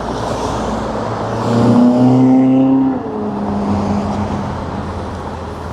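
A motor vehicle passes close by over steady road and wind noise; its engine tone grows loud about a second and a half in, then drops in pitch and fades as it goes away.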